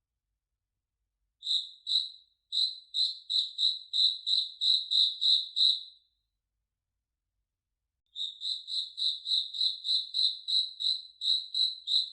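A cricket chirping in evenly spaced, high-pitched chirps, about three to four a second. The first run starts about a second in and lasts about four and a half seconds, then after a pause of about two seconds a second run begins and continues.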